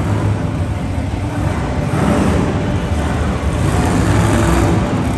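Monster truck engine running loud and hard in an arena, its rumble swelling about two seconds in.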